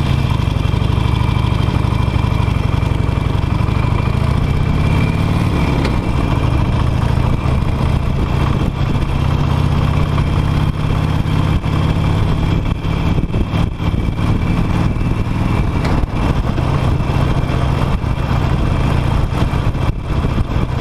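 Harley-Davidson Nightster's Revolution Max 975T V-twin running under way, its pitch climbing about five seconds in, then holding steady and dropping lower about sixteen seconds in.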